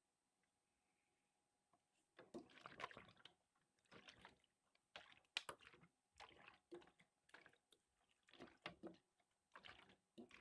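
Water sloshing and splashing in about seven short, irregular bursts, beginning about two seconds in.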